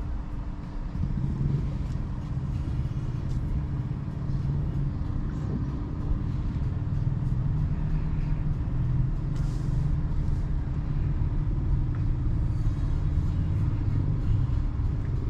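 Steady low tyre and road rumble of a BYD Seagull electric car on the move, with no engine note.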